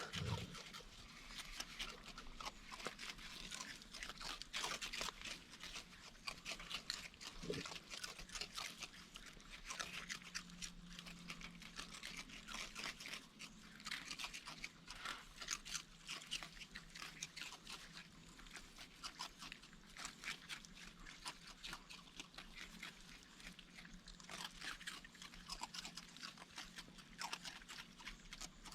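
Raccoons chewing and crunching dry food: a continuous run of small, crisp crunches and clicks.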